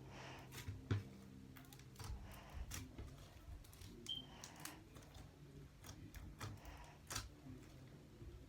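Slime being squished and poked by hand, giving faint, irregular small clicks and pops.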